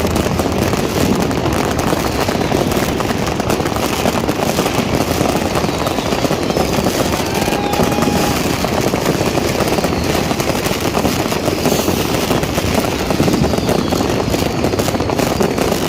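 Dense, unbroken crackle and popping of many New Year's firecrackers and fireworks going off at once, with a few short whistles from rockets.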